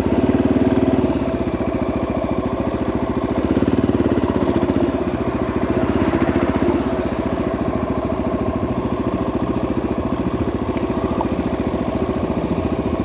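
Single-cylinder four-stroke engine of a 2014 Honda XR650L enduro motorcycle running at low revs, a steady rapid pulse that swells a little louder a few times.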